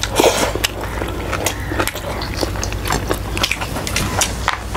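Close-miked eating sounds: chewing and biting of food, made up of many short sharp clicks and smacks over a steady low hum.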